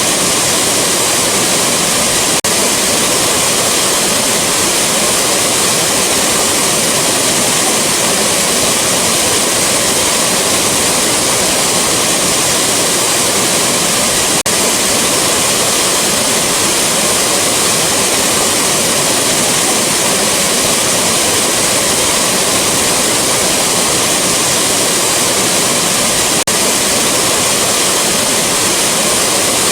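Rushing waterfall: a steady, dense rush of falling water that stays even throughout.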